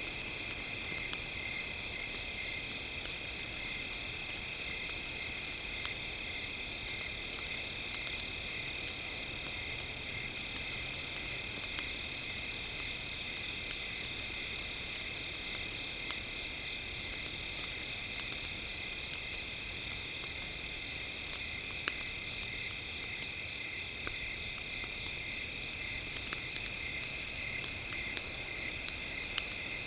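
Steady night chorus of crickets and other insects, shrill and continuous with regular chirping pulses, over a campfire crackling with scattered faint pops.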